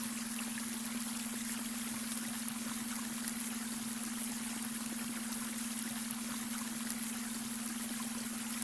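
Babbling brook, water trickling and splashing steadily over stones. Under it runs a steady low tone, the beta-wave brainwave tone mixed into the soundscape.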